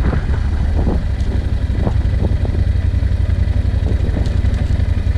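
Vehicle engine running with a steady low rumble, with a few light knocks and rattles.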